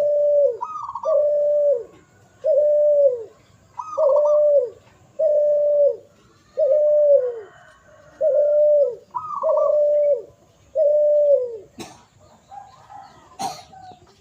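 A dove cooing: a steady run of about ten short coos, roughly one a second, each falling in pitch at its end, with a higher note slipped in every few coos. The cooing stops near the end, followed by a couple of sharp clicks.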